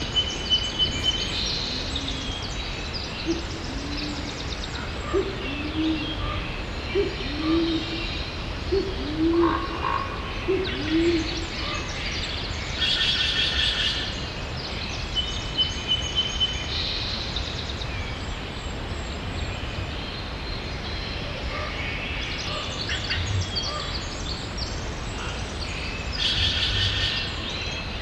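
Steady rain with birds calling over it: a run of low hooting notes, about one a second, through the first ten seconds or so, and higher chirps and short trills throughout.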